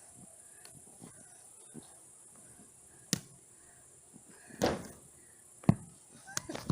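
A few sharp knocks and a longer thud over a steady high hiss: a single click about three seconds in, a dull thud just after four and a half seconds, and the loudest, sharpest knock near six seconds, followed by a quick run of smaller knocks.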